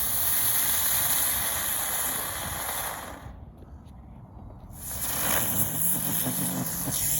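Ground bloom flower fireworks spinning on the ground, giving off a loud, steady, high-pitched hiss. The hiss stops about three seconds in and starts again about five seconds in.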